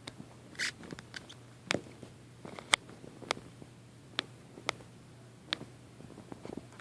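Irregular sharp clicks and taps, about eight of them spread over several seconds, over a faint steady low hum.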